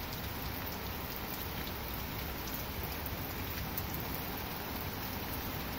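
Heavy rain falling steadily in a severe thunderstorm, an even hiss with faint drop patter.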